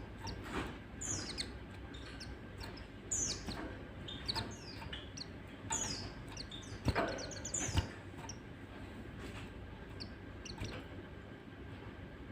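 White-eye (pleci) chirping: quick runs of high notes, each falling in pitch, with two short knocks a little over halfway through.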